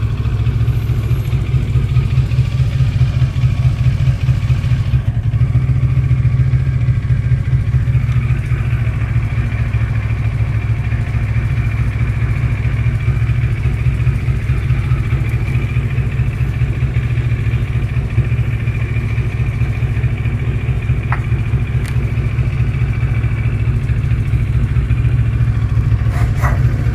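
CFMOTO 650TR-G motorcycle's 650cc parallel-twin engine idling steadily.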